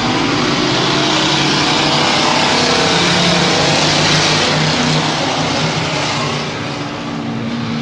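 Engines of a pack of stock race trucks running together on a dirt oval, swelling to a loud peak near the middle and easing off near the end.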